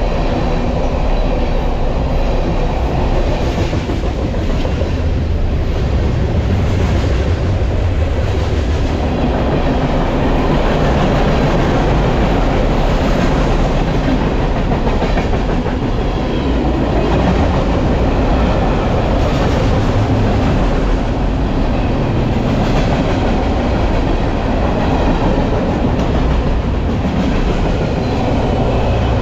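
BNSF freight train in motion: a steady, loud rumble of steel wheels running on the rails.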